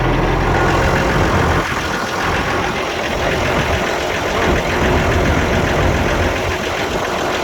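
Tractor engine running. Its steady low hum turns rougher and less even a little under two seconds in.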